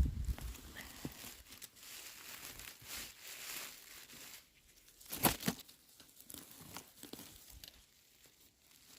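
Rustling, tearing and crackling of forest-floor plants and moss being handled while mushrooms are picked by hand, with a sharp snap about five seconds in.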